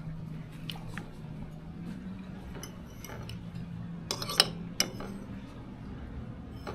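Scattered light clicks and clinks of small hard objects, with a few sharper ones about four seconds in, over a steady low hum.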